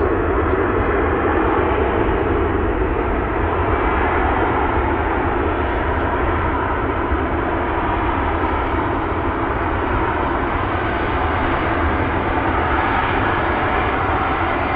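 Jet airliner engines running, a steady rushing noise with a deep rumble underneath.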